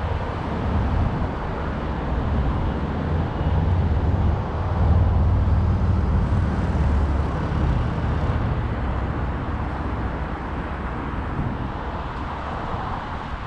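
Expo Line light-rail train running, a low rumble that swells about halfway through and then eases off.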